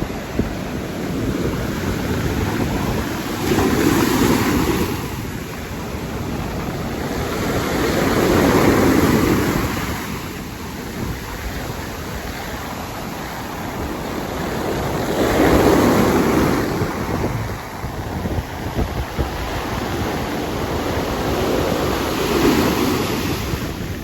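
Ocean surf breaking, four big waves surging in one after another several seconds apart, with strong wind buffeting the microphone.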